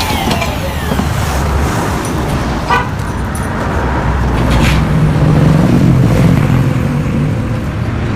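Motorcycle engine running through a reworked knockoff Yamaha RX-King exhaust, getting louder for a couple of seconds past the middle.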